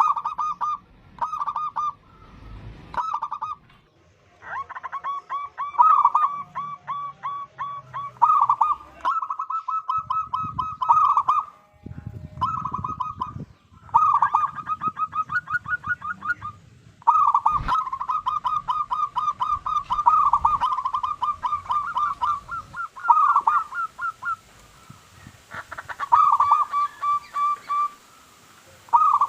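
Zebra dove (perkutut) singing: phrases of rapid, staccato cooing notes, repeated with short pauses between them.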